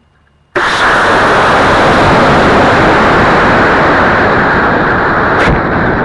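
An Estes model rocket motor ignites about half a second in and launches, heard on the camera mounted on the rocket as a sudden, very loud, steady rush of exhaust and air. The rush carries on through the flight, with a sharp crack near the end.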